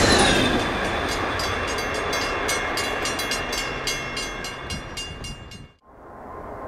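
Amtrak passenger train rolling away on the rails: a rumble dying down, with a rapid run of wheel clicks over rail joints and a faint high ringing. It cuts off about six seconds in, leaving a much quieter outdoor background.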